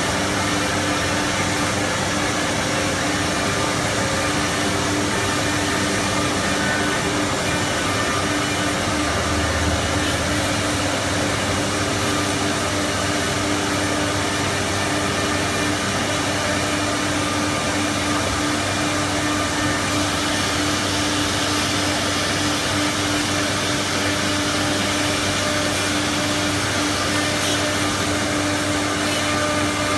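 A CC-MS1325AC4 automatic tool changer CNC router running steadily, a constant machine rush with a held hum-like tone and no breaks.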